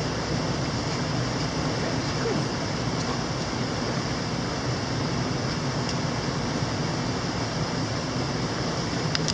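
Mountain stream rushing steadily, an even wash of water noise, with a few faint clicks.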